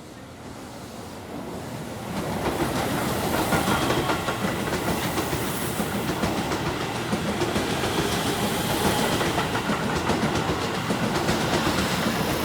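Keihan 3000 series limited express electric train passing through a station at speed without stopping: a loud rush of wheels on rail with rapid clatter over the joints, building over the first two seconds and starting to fade at the very end.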